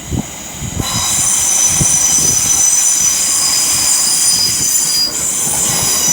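London Northwestern Railway Class 350 electric multiple unit departing, its wheels squealing in several steady high tones that set in about a second in, over a low rumble.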